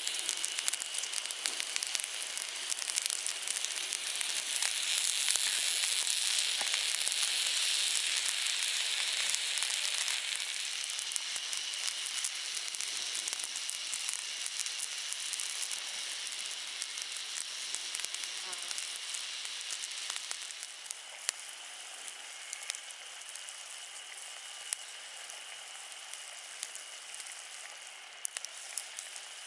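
Meat sizzling and spitting as it grills over a campfire, a dense hiss full of fine crackles. It is loudest in the first third and settles to a quieter sizzle after about twenty seconds.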